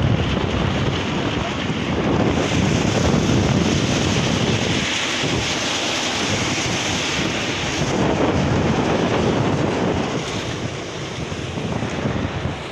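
Strong wind buffeting the microphone: a loud, steady rushing that eases slightly near the end.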